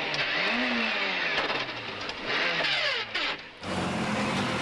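Rally car engine revving hard up and down through the gears on a stage, with hiss from the road. About three-quarters of the way through it cuts off abruptly to a steadier, lower engine hum.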